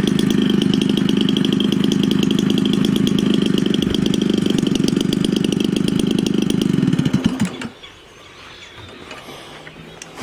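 Homelite 30cc two-stroke engine with an enlarged Walbro carburetor, running steadily. About seven seconds in it winds down and stops, leaving a quiet stretch, and the running engine sound returns abruptly at the very end.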